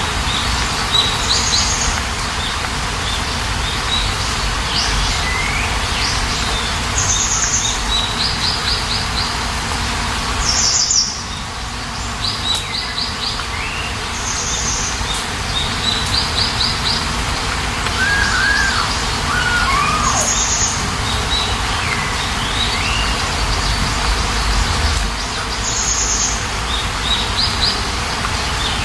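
Several birds chirping and calling over a steady hiss of rain. A short high call repeats every few seconds, mixed with quick trills and gliding whistles.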